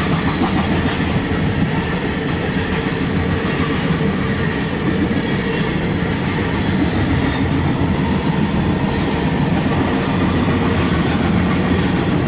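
Loaded grain hopper cars of a CSX freight train rolling past at steady speed: the continuous noise of steel wheels on the rails.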